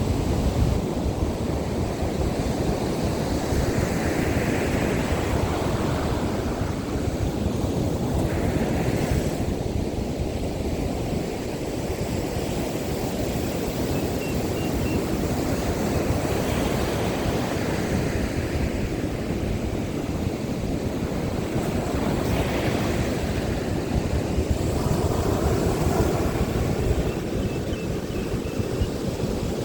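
Heavy surf breaking on a sandy beach in strong monsoon wind, a continuous rushing wash that swells and ebbs, with wind buffeting the microphone.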